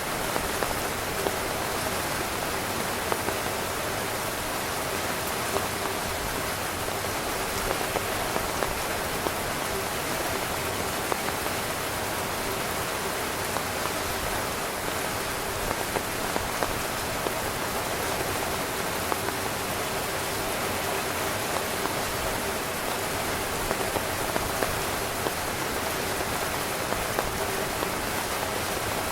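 Steady rain falling on a tent, a dense even hiss with frequent small drop ticks.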